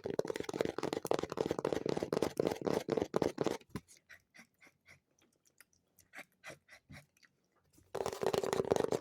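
Very fast tapping with fingertips and nails on an object, a dense flurry of taps that slows to scattered single taps in the middle and speeds up again near the end.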